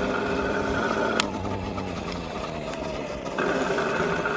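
Small dirt bike's motor running steadily under the rider. Its tone shifts with a click about a second in, and shifts again a little after three seconds.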